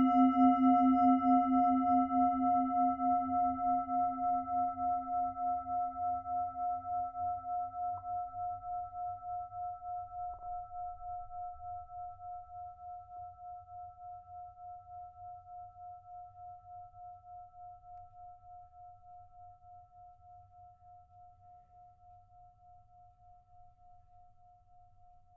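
Metal singing bowl ringing out after a single strike, its tone pulsing with a slow wobble as it fades. The low note dies away within about ten seconds, leaving a higher note that lingers faintly. Two faint clicks come around eight and ten seconds in.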